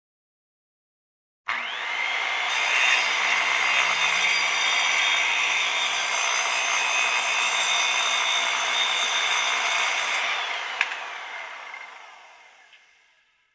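Electric saw switched on, its motor whine rising quickly as it spins up, then running steadily with a dense cutting noise for about eight seconds. Near the end there is a sharp click, and the motor winds down with a falling whine.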